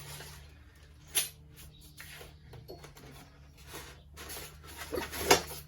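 Table saw parts and packaging being handled: scattered light clicks and rustles, a sharp knock about a second in, and a cluster of louder knocks near the end.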